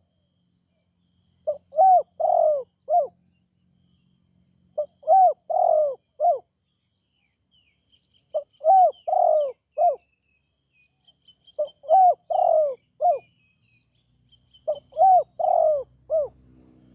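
Spotted dove cooing: a phrase of four or five rising-and-falling coos, repeated five times about every three and a half seconds. Faint, high chirps of a small bird come in between the phrases around the middle.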